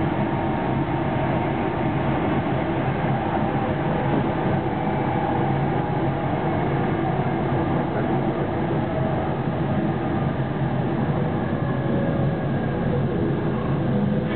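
JR 373 series electric train running at steady speed, heard from inside the car: continuous rolling noise of wheels on rail with a few faint steady tones above it.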